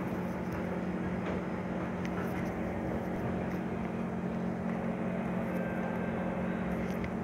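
Steady hum with a low drone at an underground MRT platform, from a Kawasaki C151 train standing with its doors open, its air-conditioning and auxiliary equipment running, mixed with the station's ventilation. A few faint clicks.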